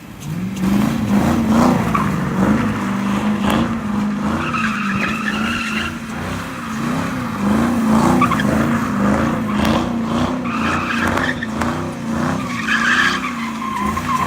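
Drift car doing donuts: the engine is held at high revs that rise and fall over and over, and the rear tyres squeal and skid. The squeal grows louder about four seconds in and again near the end.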